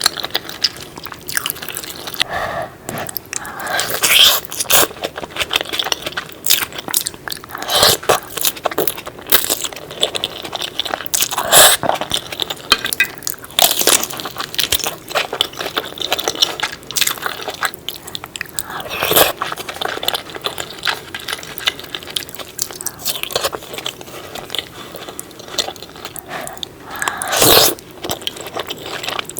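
Close-miked eating sounds of a person biting and chewing cheesy seafood: a steady run of mouth clicks and chewing, with louder bites about 4, 12, 19 and 27 seconds in.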